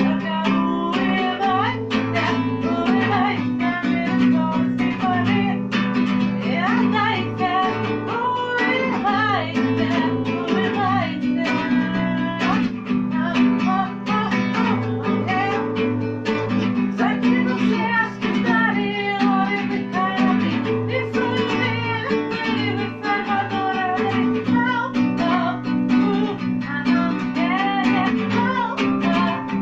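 Acoustic guitar strumming chords, with a voice singing along over it.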